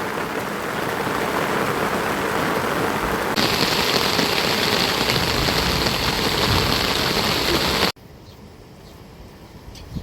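Heavy rain, a steady loud hiss of falling water that turns brighter and sharper about a third of the way in. It cuts off abruptly near the end to a much quieter background with a few faint ticks.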